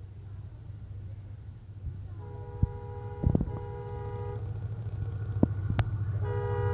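Approaching diesel locomotive sounding its multi-tone horn: a rumbling engine growing steadily louder, a horn blast of about two seconds starting a little over two seconds in, and a second blast starting near the end, with a few short knocks between.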